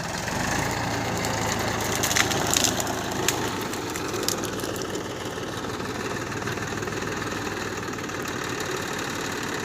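Tractor engine running steadily at a low idle-like pace, with a few sharp clicks or knocks in the first few seconds.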